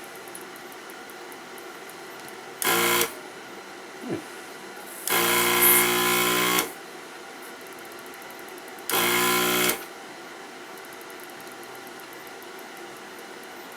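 Electric desoldering gun's vacuum pump buzzing in three short bursts, the longest about a second and a half, as old solder is sucked off the circuit board.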